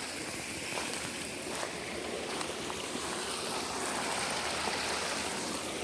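Steady rushing noise, even across low and high pitches, with a few faint light clicks scattered through it.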